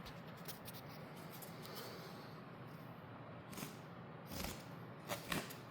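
Faint scraping and handling noises of hand drywall patching work, with a few light clicks and knocks in the second half.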